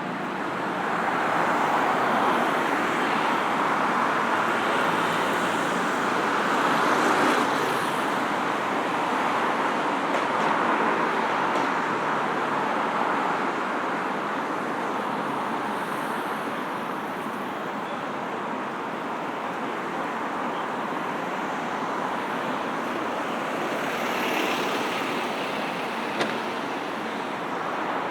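Steady noise of busy city road traffic, cars passing close by, louder over the first half with swells as vehicles go by.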